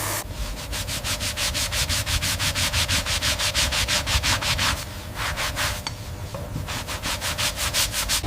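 Rapid back-and-forth rubbing strokes on silverware during hand polishing or scrubbing, about six or seven strokes a second. The strokes pause for about a second near the middle, then start again.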